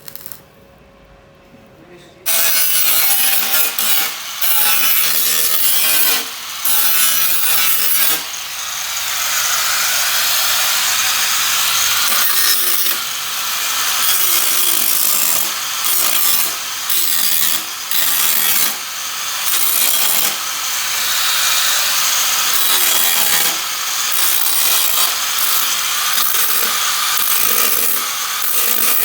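Angle grinder working on the rusted sheet-steel floor panel of a Vespa, starting about two seconds in and running loud with several short dips as it eases off and bites again.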